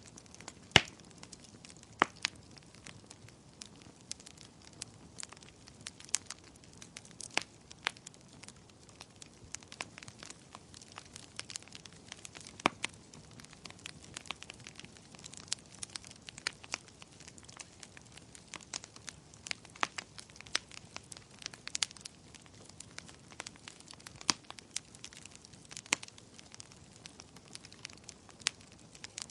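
Wood fire burning in a fireplace, crackling and popping irregularly over a faint steady hiss, with a few sharper pops standing out.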